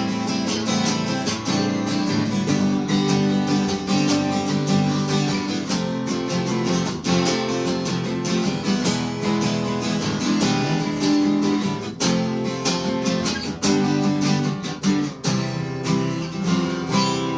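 Acoustic guitar strummed in a steady rhythm, an instrumental break between sung verses of a song.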